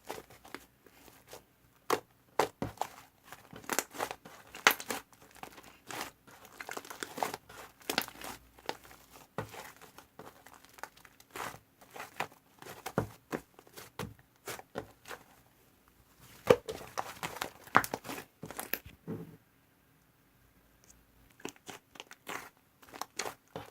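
Homemade slime being worked by hand, giving irregular crackling and popping clicks, with a pause of about two seconds near the end.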